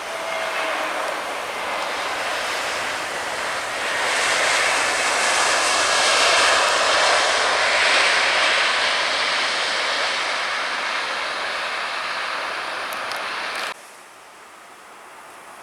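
Airliner passing close, its engine roar swelling to a peak about halfway and easing off. It cuts off abruptly near the end, leaving a quieter background wash.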